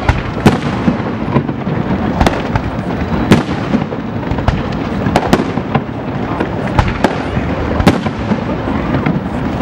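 Aerial fireworks display: a rapid, continuous barrage of shell bursts and crackling reports, several bangs a second over a constant rumble.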